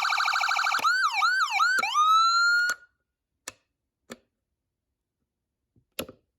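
Whelen 295SLSA1 electronic siren changing tones: a fast warbling tone, then a few quick up-and-down sweeps, then a rise to a steady high tone that cuts off suddenly a little under three seconds in. A few short clicks follow.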